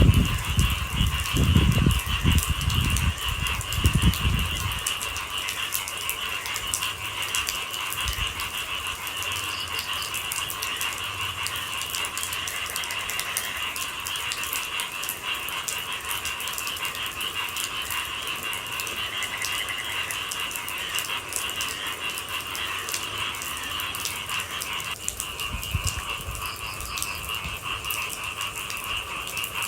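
A steady, rattling chorus of night-calling animals keeps going with an even trill and hardly changes. Low rumbling sits under it for the first four seconds or so, then dies away.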